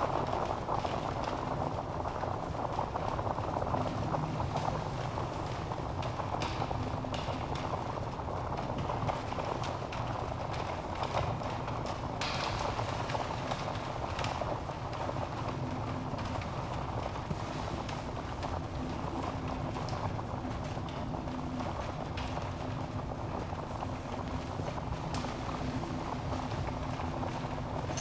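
Wood logs burning in a fireplace: a steady low rush of flame with scattered sharp crackles and pops.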